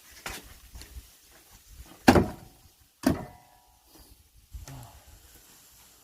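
Two heavy axe blows splitting firewood, about a second apart, the second leaving a brief ringing tone, with a few lighter knocks before them.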